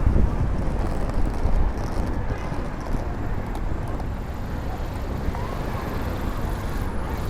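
City street ambience dominated by road traffic: a steady rumble of passing cars, loudest in the first couple of seconds.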